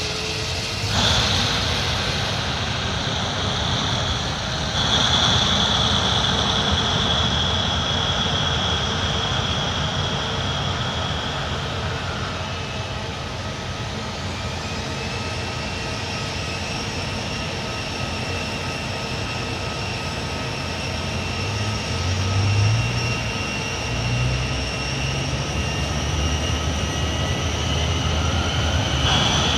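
Jet airliner engines running with a steady high whine, which gets louder about a second in and again around five seconds in; later a fainter whine slowly rises in pitch.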